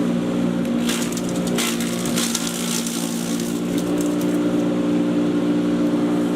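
Patriot 1.5-HP electric chipper shredder running with a steady motor hum, broken by irregular crackling bursts from about a second in through the middle as material is shredded.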